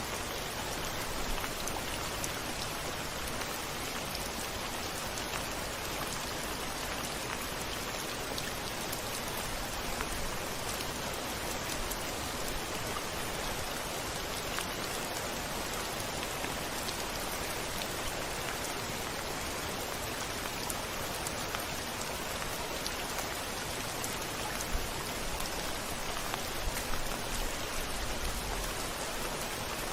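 Steady rain falling on a window, a dense even hiss with single drops ticking through it. A low rumble swells underneath near the end.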